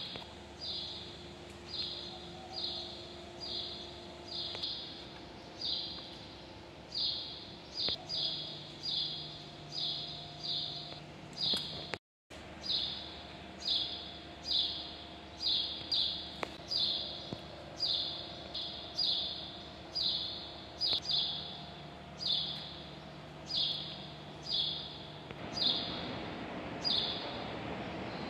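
A bird chirping over and over, about one to two short, high chirps a second, over a faint steady hum. The sound drops out briefly about twelve seconds in.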